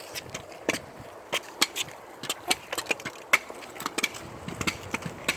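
Footsteps crunching along a trail: a quick, irregular run of sharp crunches and clicks.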